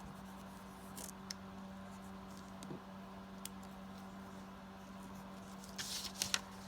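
Paper and card handled on a craft table: a few faint taps and then a short burst of rustling about six seconds in, over a steady low hum.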